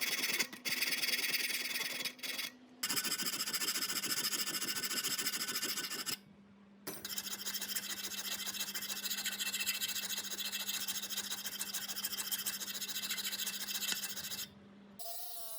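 A motor-driven tool running with a steady hum while it sands or grinds a surface, a continuous rasping scrape that stops briefly three times as the tool is lifted off.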